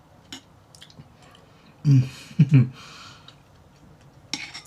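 A few light ticks of a spoon against a bowl, then about two seconds in a short hummed "mmm" with a breathy slurp as the soup is tasted off the spoon.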